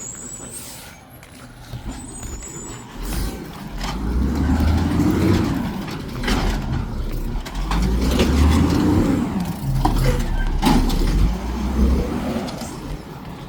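Garbage truck engine revving hard in three repeated surges as it drives the hydraulics on a trash pickup. A few sharp clanks and knocks come between the surges.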